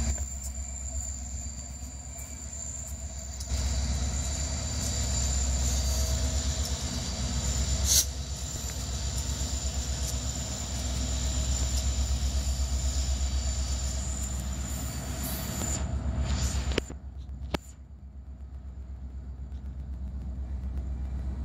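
Freight train of boxcars rolling past at close range: a steady low rumble with a fast, even beat of wheels on rail. A thin, high, steady wheel squeal runs over it and stops about seventeen seconds in, with a sharp knock about eight seconds in and two more near that point.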